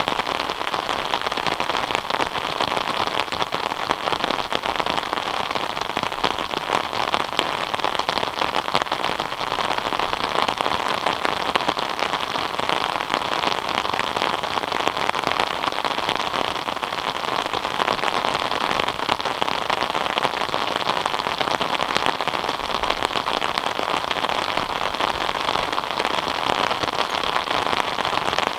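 Steady rain falling, a dense patter of countless small drops hitting a surface, even in level throughout.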